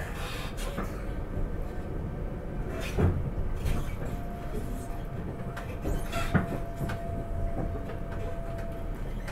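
Inside a moving SEPTA Regional Rail car: the steady low rumble of the train running along the track, with sharp knocks about three seconds in and again a little after six seconds, and a thin steady tone from about four seconds in to near the end.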